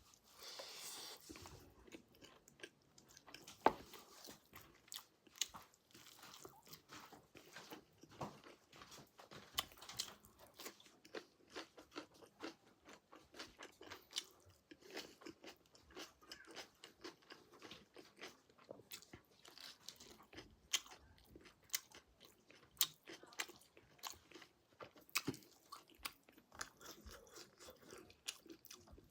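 Close-up chewing and crunching of pork, with many short wet clicks of biting and mastication at an irregular, quick pace and a louder crunch about three and a half seconds in.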